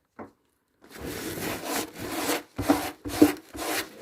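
A hand scrubbing back and forth over the grimy body of an old bubble car, wiping off dirt to show its name badge: a run of rough rubbing strokes, about two a second, starting about a second in.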